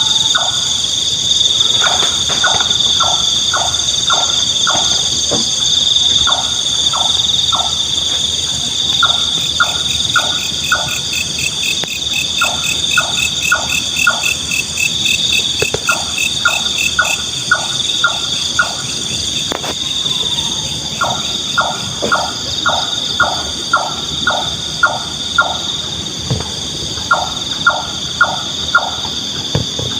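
Nightjar calling: short notes repeated about three times a second in runs of four to eight, with brief pauses between runs. A steady chorus of night insects runs underneath.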